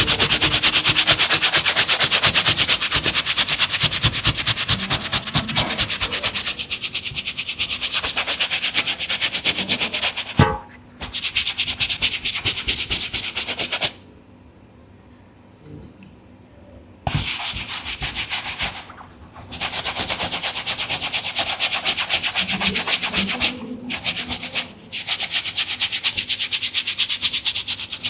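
Rapid back-and-forth scrubbing on a sneaker during a deep clean, a hissy rubbing that stops briefly a few times, including one pause of about three seconds midway.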